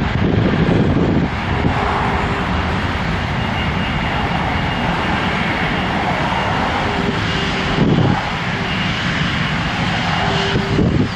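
Jet airliner engines running: a steady broad rush with a faint high whine on top.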